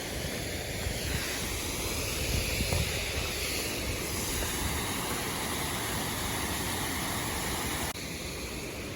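Waterfall rushing steadily, an even noise of falling water, dropping slightly in level near the end.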